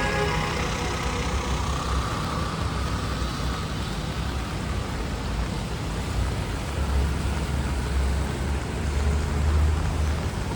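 City street traffic on wet pavement: a steady hiss of tyres and rain over engine noise. A heavy vehicle's low engine rumble grows louder in the last few seconds.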